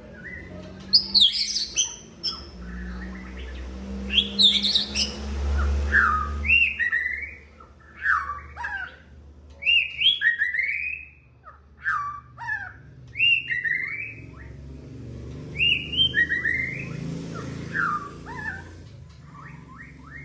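White-rumped shama (murai batu) singing: a run of loud, varied whistled phrases, many sliding up or down in pitch, with short pauses between them, over a faint low hum.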